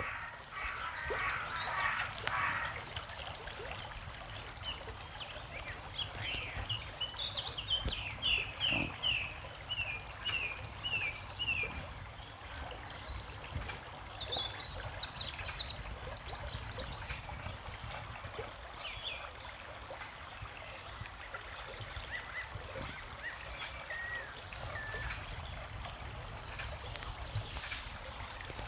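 Small birds singing, with series of short, rapidly repeated high chirps and trills that come and go, over a steady low rumble.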